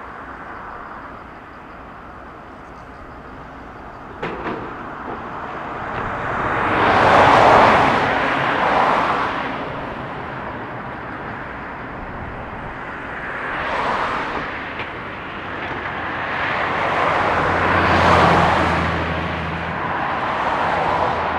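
Road vehicles passing one after another, each swelling and fading over a few seconds, with a low steady hum coming in about two-thirds of the way through.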